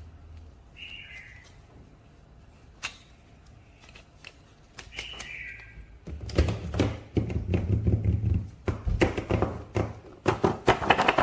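Packaging and a toy figure being handled by hand: scattered faint clicks and a couple of brief squeaks at first, then a busy run of rapid clicks, crinkles and knocks from about six seconds in.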